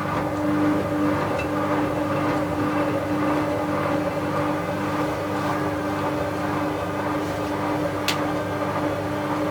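Bauknecht WA 7778 W front-loading washing machine running steadily with a constant motor hum. There is a single short click about eight seconds in. The drum bearing is already wearing, though the uploader says it was not yet bad at this point.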